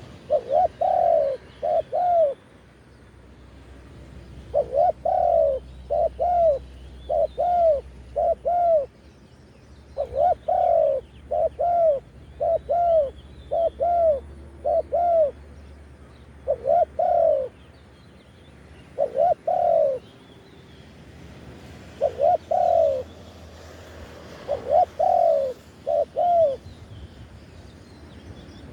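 Spotted dove cooing: phrase after phrase of two or three short, arched coos, repeated every couple of seconds with brief pauses between phrases.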